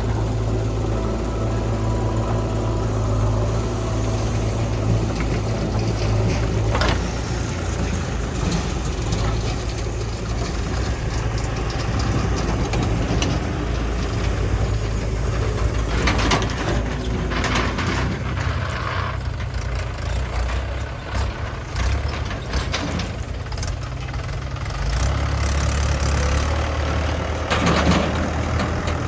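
Diesel engines of a backhoe loader and tractors running steadily while mud is loaded, with a few knocks and rattles, the loudest near the end.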